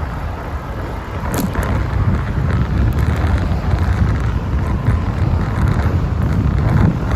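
Wind rumbling on a bike-mounted phone's microphone while riding, over the noise of road traffic, with a sharp click about a second and a half in.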